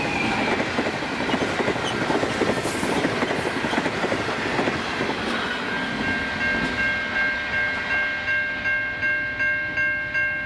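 A passenger train's locomotive and carriages pass over the crossing with loud wheel clatter, which then fades as the train moves away. From about six seconds in, the level crossing's Safetran Type 3 electronic bell rings clearly and evenly, about two strokes a second.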